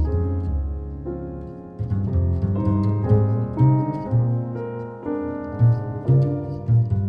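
Piano and double bass playing a slow ballad together, with piano chords over a line of low bass notes.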